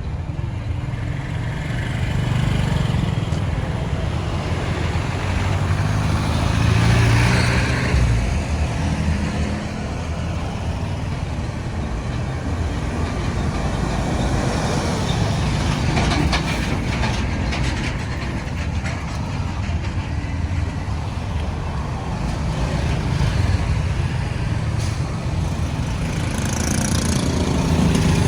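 Road traffic going by: engines and tyre noise of passing vehicles that swell and fade, loudest about seven seconds in.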